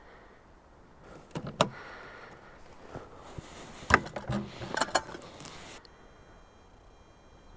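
A few sharp knocks and clatters, like gear being handled, then a faint, steady, high-pitched whine starting about three-quarters of the way through.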